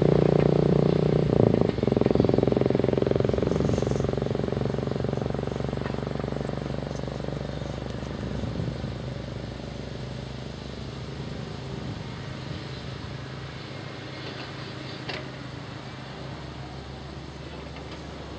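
Heavy diesel machinery engine running, loud at first and fading steadily, as if moving away.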